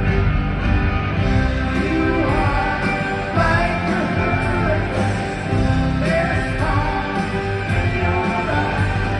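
Rock band playing live, with singing over electric guitars and drums, loud and continuous.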